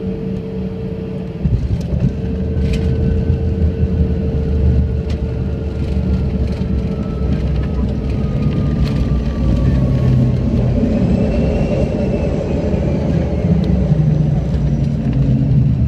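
Jet airliner landing, heard from inside the cabin. About a second and a half in, the low rumble jumps suddenly louder as the wheels touch down, and loud runway rumble and engine noise follow. A steady engine tone fades out, and a faint whine slides down in pitch as the plane slows.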